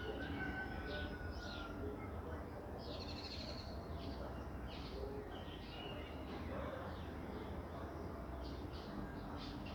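Several wild birds chirping and calling, with a long, slowly falling whistle in the first couple of seconds, over a steady hiss of light rain and a low, steady rumble.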